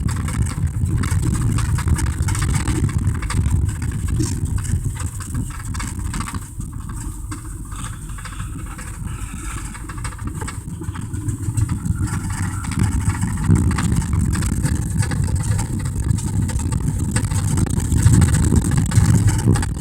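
1987 Dodge Ram D150 pickup's 318 V8 engine running as the truck drives over rough field ground, heard from inside the cab. The engine and road noise ease off around the middle, then get louder again toward the end.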